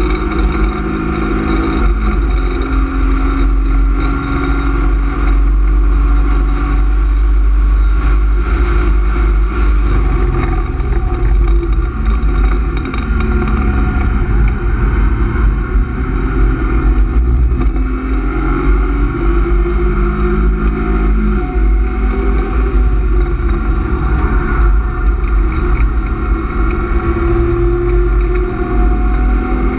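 BMW E36 328is straight-six, fitted with a cold-air intake and M50 intake manifold, running hard on track, heard from inside the cabin. The engine note falls as the car slows hard for a corner, then rises again as it accelerates out.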